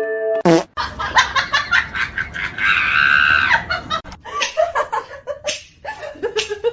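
A person laughing hard in rapid bursts, with a high held squeal about three seconds in, after a quick falling sound at the start.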